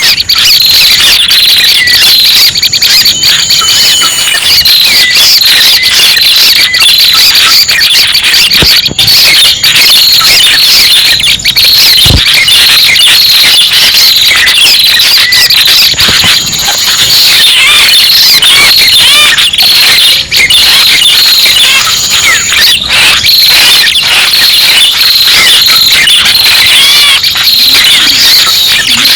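Prenjak pala merah bird-lure recording: a loud, dense, unbroken stream of rapid high chirps and trills, as played to call small birds in for trapping.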